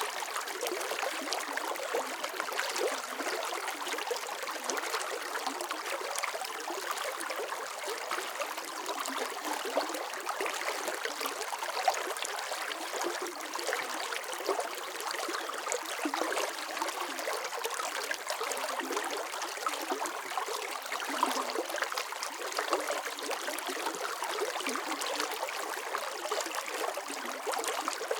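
Running water: a steady stream or brook flowing and trickling, with small splashes and bubbling and no low rumble.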